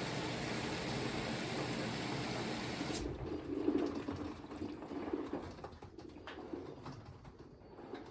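LG front-loading washing machine running a test load after its valve replacement: a steady rushing noise that cuts off suddenly about three seconds in, followed by quieter, uneven sounds that fade towards the end.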